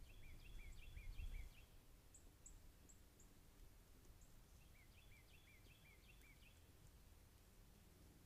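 Faint songbird song: a quick run of about eight repeated slurred notes, sung twice about four seconds apart, with a few thin high chips between. A low rumble, likely wind, is heard in the first second or so.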